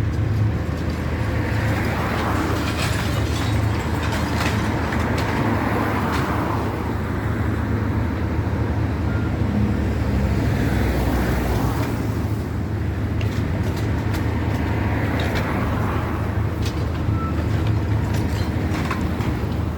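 Heavy diesel engine running steadily with a low drone, with scattered knocks and clatter over it.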